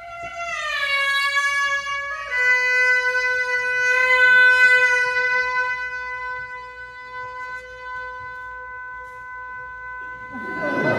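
Suona playing a note that slides down in two steps over the first couple of seconds, then holding one long steady note that swells to its loudest about four seconds in and slowly fades. A rougher, noisier burst of sound comes in near the end.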